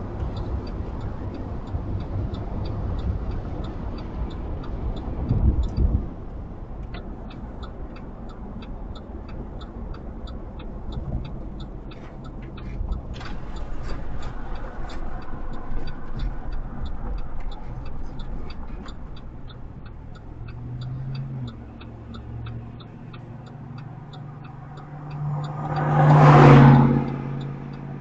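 Empty CSX coal train rolling past: a steady rumble of the freight cars with a regular, quick clicking of wheels over the rail. About 26 s in, a louder sound swells up with a pitched hum and then fades.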